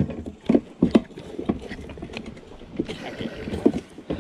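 Irregular plastic knocks and clunks as the round hatch cover on a sit-on-top plastic kayak is handled and opened.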